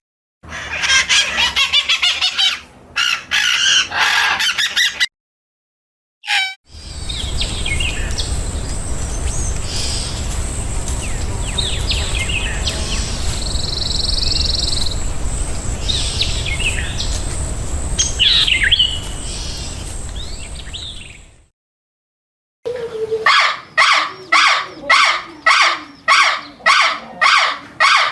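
Birds chirping and calling in three separate stretches broken by abrupt short silences. The middle stretch has scattered calls over a steady rushing noise and a thin high whine. Near the end comes a run of evenly repeated calls, about two a second.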